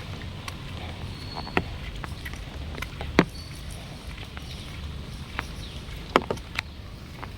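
Rain falling, with scattered large drops striking close by as sharp ticks of uneven loudness, the loudest about 3 seconds in and about 6 seconds in, over a steady low rumble.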